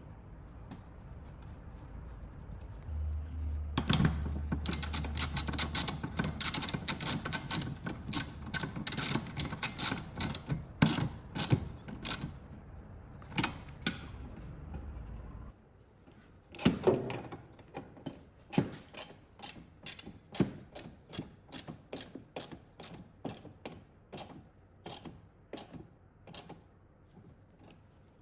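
Ratchet wrench clicking as a fastener is turned. A fast run of clicks over a low hum fills the first half, the hum stops about halfway, and then come slower, separate clicks about two a second.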